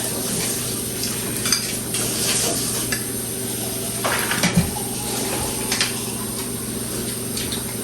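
Spoons and cutlery clinking against dishes and bowls during a meal: scattered light clinks every second or so over a steady low hum.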